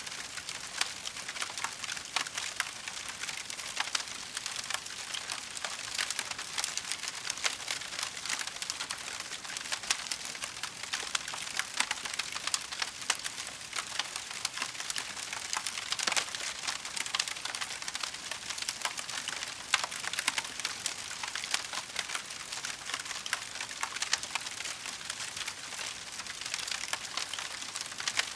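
Wood fire crackling, a dense run of small pops and ticks with an occasional sharper snap.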